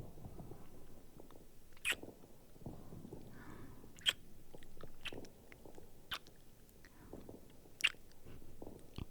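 Close-miked kissing sounds, about four wet lip smacks a couple of seconds apart, over muffled fireworks rumbling low in the background.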